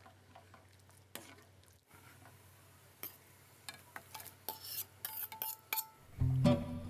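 A utensil stirring and tapping in a cooking pot: scattered light clinks and scrapes. Guitar music starts about six seconds in and is the loudest sound.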